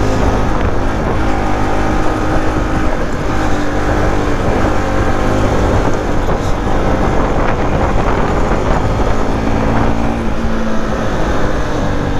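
Single-cylinder engine of a Bajaj Pulsar NS200 motorcycle running under way, heard from the riding bike, its pitch shifting a little with the throttle over a steady rush of road and wind noise.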